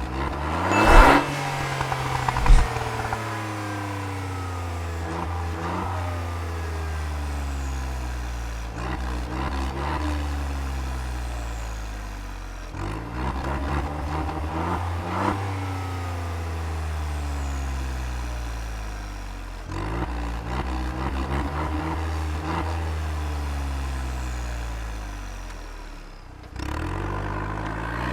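Exhaust of a 2018 Smart Brabus with a loud tuned exhaust system, the engine revved again and again, each rev climbing quickly and then easing back down over a few seconds. Two sharp cracks come from the exhaust near the start.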